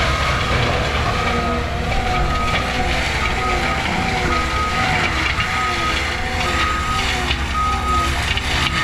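Heavy equipment, likely a skid steer, running with a deep engine rumble and a wavering whine, while its backup alarm beeps about once a second.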